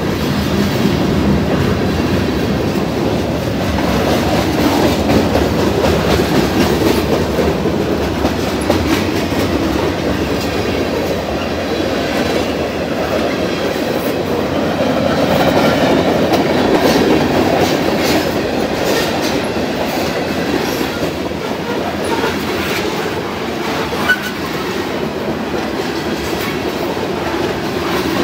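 Freight cars of a passing freight train (lumber cars, a gondola, a boxcar and covered hoppers) rolling by close at hand in a steady rumble, their wheels clicking over the rail joints.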